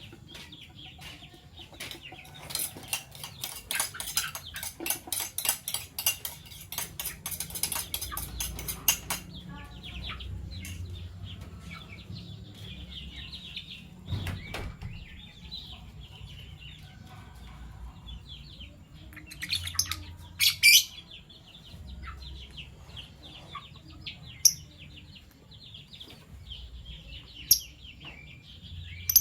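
Fischer's lovebirds chattering and chirping, with a fast run of sharp ticks from about two to nine seconds in and a few loud, shrill calls later on.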